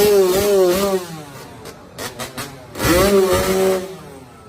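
Dirt bike engine revving in two bursts, its pitch rising and falling rapidly, with a few sharp clicks between the bursts.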